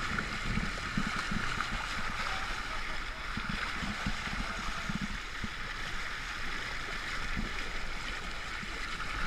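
Water rushing and splashing along the hull of a sailing yacht under way, a steady hiss with irregular low buffeting underneath.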